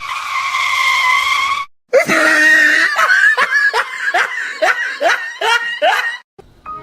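High-pitched voice: one held cry, then a rapid run of short rising yelps, about two a second.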